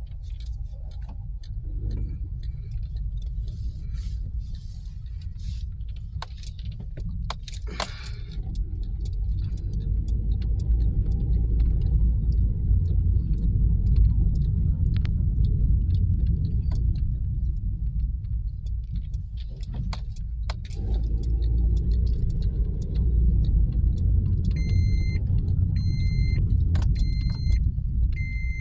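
Car moving at low speed: a steady low rumble of engine and tyres that swells and eases, with small clicks and rattles like jangling keys. Near the end an electronic warning chime beeps about once a second.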